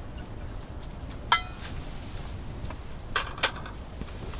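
Metal pot and cookware clinking: one sharp ringing clink about a second in, then two quicker knocks near three seconds, over a steady low rumble.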